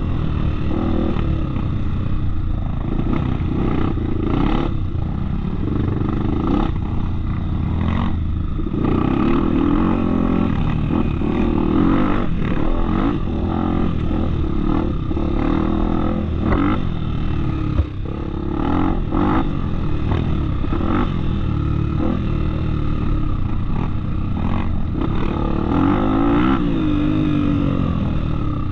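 Off-road motorcycle engine running on a trail ride, its pitch rising and falling as the throttle opens and closes, with frequent knocks and rattles from the bike over rough ground.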